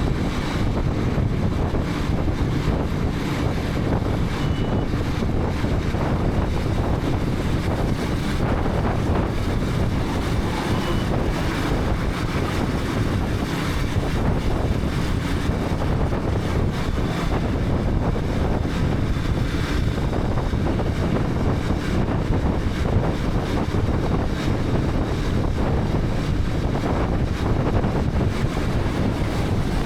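Wind rushing over a helmet-mounted action camera's microphone at riding speed, with a KTM 250 Adventure's single-cylinder engine running steadily underneath. The sound stays even, with no gear changes or sudden events standing out.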